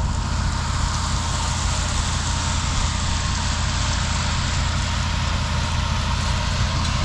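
Large farm engine running steadily at a constant speed, a low even drone.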